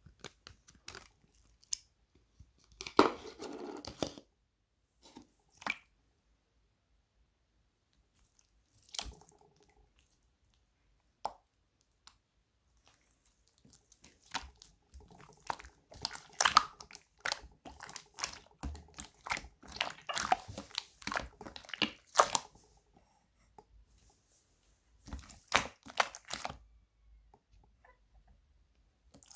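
Slime being squished and pressed by hand, giving irregular wet clicks and crackling pops in bursts, with short pauses between.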